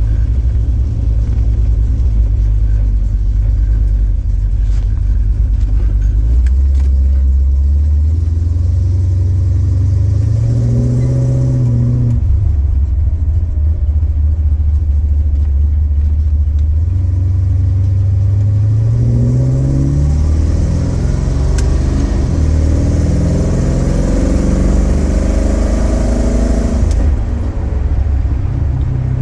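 1969 Chrysler New Yorker's 400 big-block V8 pulling hard through its exhaust, the engine note climbing twice and dropping each time as the 727 TorqueFlite automatic shifts up, about twelve seconds in and again near the end. The engine is not yet warm.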